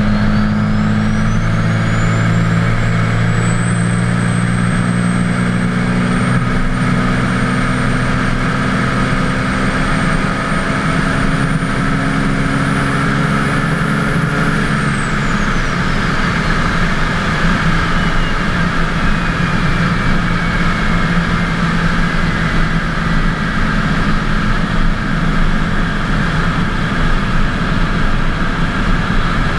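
Twin-turbo 24-valve Cummins diesel running under way. A high turbo whistle climbs over the first few seconds, holds steady, then falls away slowly about halfway through while the low engine note carries on.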